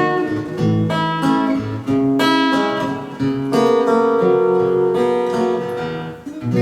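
Acoustic guitar strumming chords with no voice, the song's instrumental closing bars; each chord rings on between strokes, with a fresh strum near the end.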